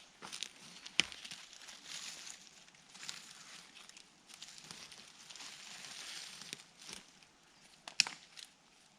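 Dry twigs and leaves rustling and crackling, with two sharp snaps, about a second in and again near the end.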